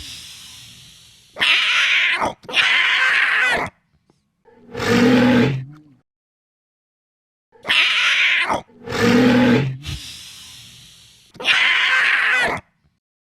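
Designed Pyroraptor dinosaur roar sound effects: six short creature calls, each about a second long and separated by silence. Some are shrill, high screeches; others are lower and growling.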